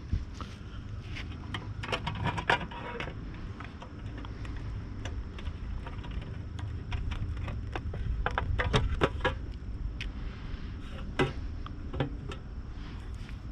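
Scattered clicks, knocks and rattles of a metal bird feeder being handled, bunched into two busier spells about two seconds in and again near the middle.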